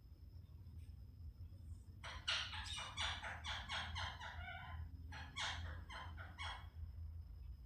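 Pet parrot calling: a rapid run of short calls, several a second, starting about two seconds in, then a second, shorter run about five seconds in.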